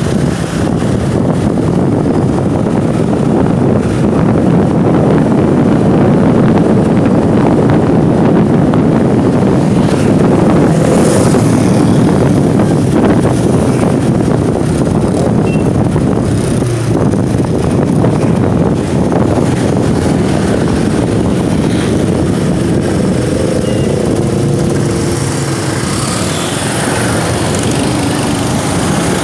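Steady road and engine noise from a moving motorbike, with wind rushing over the microphone.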